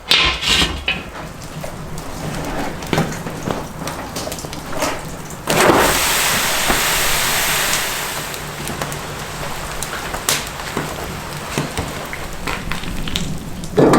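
Food sizzling in hot fat, a steady hiss with scattered crackles, swelling to a louder sizzle about five and a half seconds in and easing back a couple of seconds later.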